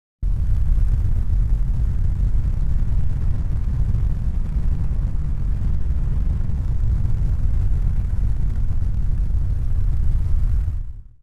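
A steady, deep rumbling noise that starts abruptly and fades out near the end.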